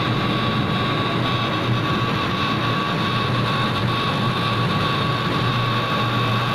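CNC laser cutting machine running while cutting a wooden sheet: a steady mechanical hum with a constant high whine over it.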